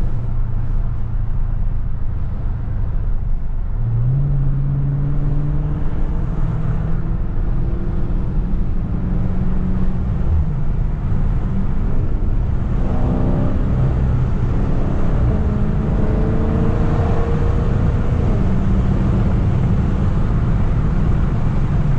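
Dodge Scat Pack's 6.4-litre HEMI V8 running under way, heard from the cabin with wind noise through the open windows; the engine pitch steps up about four seconds in and shifts again in the second half.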